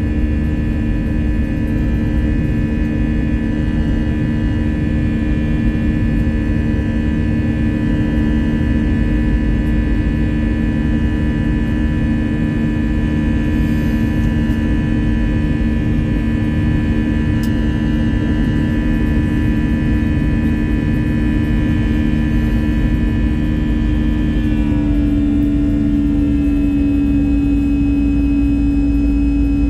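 Airbus A321 cabin noise with the jet engines running: a steady low hum and rumble with a high whine over it. About 25 seconds in, the tones shift to a new pitch.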